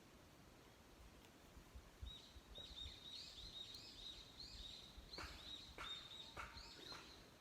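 A bird calling: a quick run of short, high chirping notes that starts about two seconds in and carries on until near the end, with a few soft clicks in the second half.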